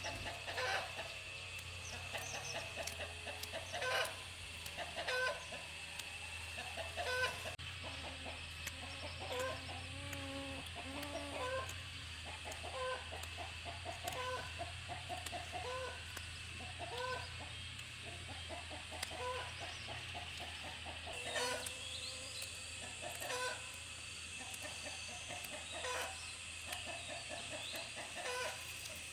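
Chickens clucking, short calls repeating about once a second, over a steady high-pitched tone in the background.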